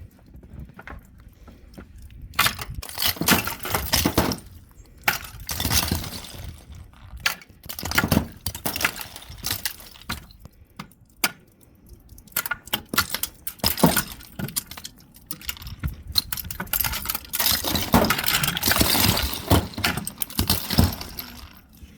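Large icicles smashing and breaking, with ice chunks clinking and shattering in repeated bursts.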